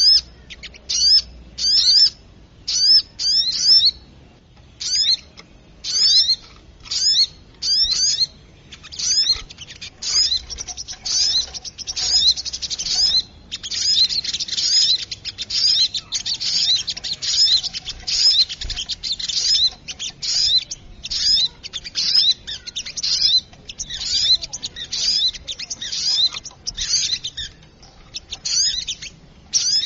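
Recorded calls of small birds played as a trapping lure: sharp, high chirps repeating about once a second, then thickening into a dense, noisy chatter about ten seconds in.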